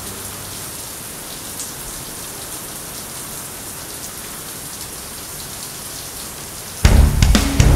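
Steady rain falling, an even hiss. Near the end, loud music with sharp drum-like hits cuts in suddenly.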